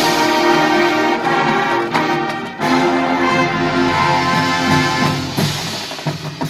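Marching band wind section, brass and woodwinds, playing held chords, moving to a new chord about two and a half seconds in and growing softer near the end.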